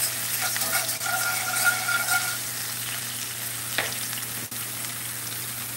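Chopped onions and green onions sizzling steadily in hot fat in a cast-iron skillet, with a wire whisk stirring and scraping the pan for the first couple of seconds.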